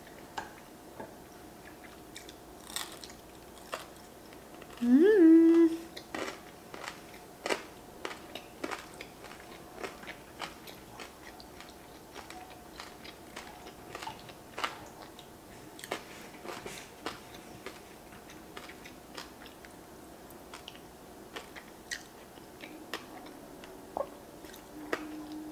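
Close-miked chewing with frequent soft clicks as a person eats spicy raw yellowtail sashimi strips with crispy rice. A loud hummed "mm" of enjoyment comes about five seconds in, and another begins near the end.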